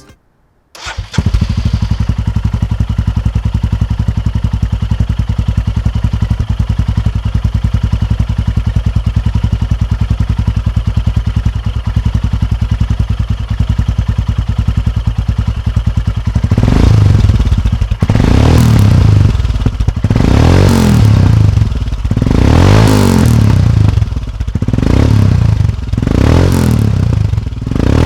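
Royal Enfield Himalayan's single-cylinder engine through a PoweRage slip-on exhaust with its dB killer removed, heard from just behind the bike. It idles steadily at first, then takes six or seven quick throttle blips in the last third. The recording distorts on the revs.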